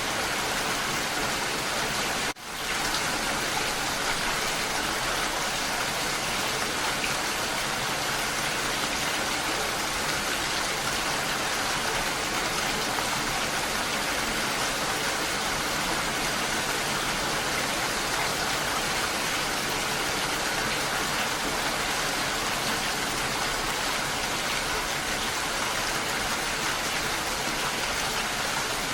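Steady rain falling, a dense even patter, with a brief drop in level about two seconds in.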